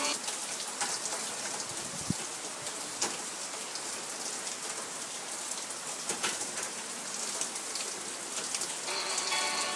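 Steady rain falling, an even hiss with a few louder drop clicks about two, three and six seconds in. Music comes back in near the end.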